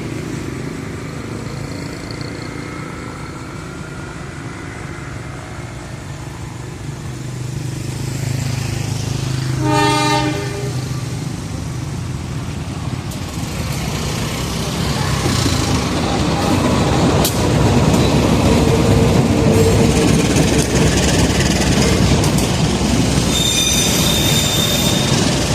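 Diesel-electric locomotive approaching with its engine rumbling, sounding one short horn blast about ten seconds in. The train then passes close, wheels clattering over the rail joints, with a high metallic wheel squeal near the end.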